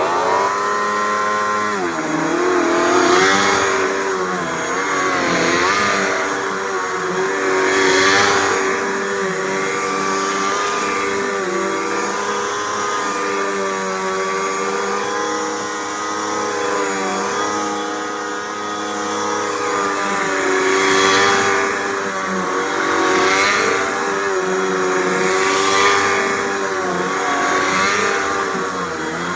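Hoover WindTunnel 2 Rewind upright vacuum cleaner switched on and running loud, its motor pitch dipping and wavering and its loudness swelling every couple of seconds.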